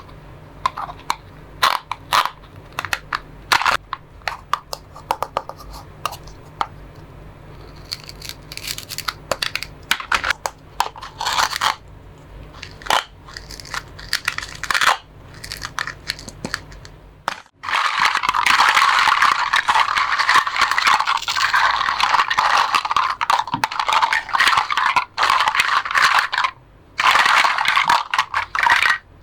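Plastic toy fruits and vegetables being cut with a toy knife: scattered clicks, taps and short raspy tears, then from a little past halfway a long, almost continuous raspy tearing and crunching with a few brief breaks.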